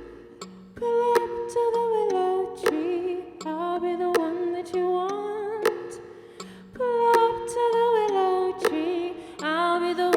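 Music: a woman's wordless sung melody, gliding between notes in two long phrases, over sharp percussive clicks and a held low note.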